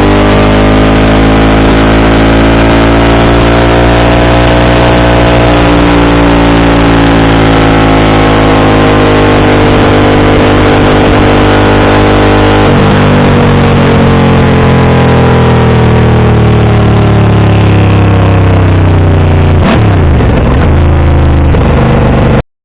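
Motorcycle engine with an aftermarket JC exhaust running steadily, its pitch slowly rising and falling. The tone changes about two-thirds of the way through, there is a quick dip and rise in pitch near the end, and then the sound cuts off abruptly.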